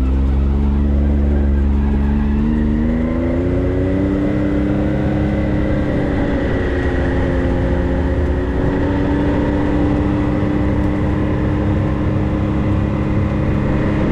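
Vehicle engine pulling a trailer, heard from inside the cab. Its pitch climbs over the first few seconds and then holds steady, with a deep rumble that drops away about three seconds in.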